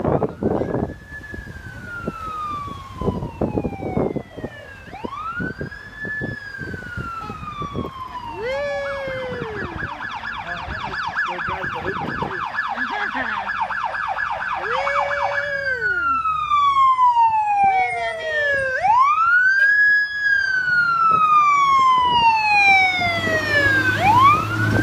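Emergency vehicle's electronic siren: a slow rising-and-falling wail, switching in the middle for about six seconds to a rapid yelp, then back to the wail, growing louder toward the end. A few knocks sound in the first few seconds.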